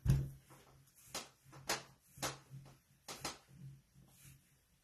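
Light taps and clicks, about two a second and uneven, from small objects being handled on a table, over a faint low steady hum.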